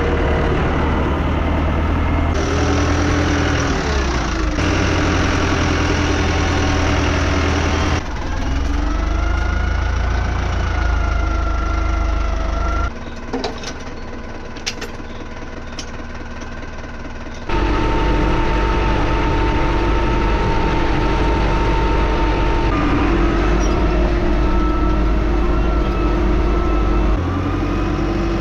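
Diesel tractor engines running in a string of short clips, the engine note changing abruptly every few seconds. About halfway through comes a quieter stretch of a few seconds with a few sharp clicks.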